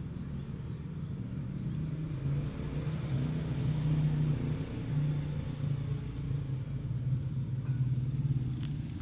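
Small engine running steadily, its pitch wavering slightly, a little louder from about two seconds in.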